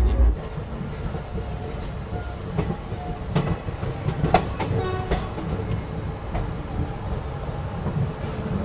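Passenger train coaches rolling slowly along a station platform: a steady rumble with wheels clacking and knocking over the rail joints, and a brief high-pitched squeal about five seconds in.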